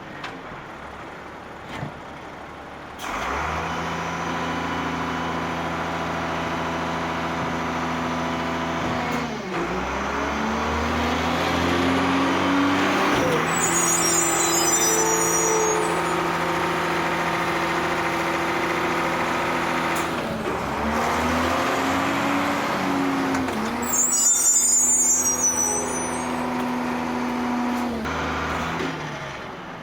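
Large truck's diesel engine running, revving up twice and holding at higher speed, with two short hisses of compressed air.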